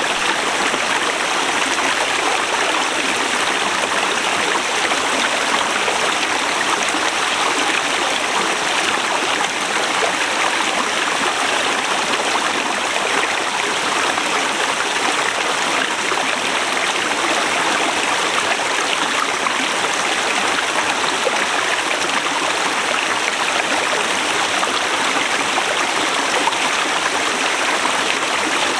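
Forest river rushing steadily over rocks, a continuous even flow of water noise.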